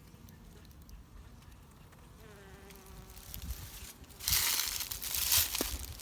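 Honey bees flying past near the hive entrance, their faint buzz gliding down in pitch as one passes. About four seconds in, a much louder rustling, crackling noise takes over.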